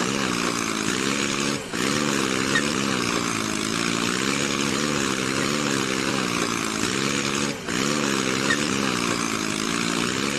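Small electric motor of a miniature model truck running with a whine and gear hiss, its pitch wavering up and down as the load changes.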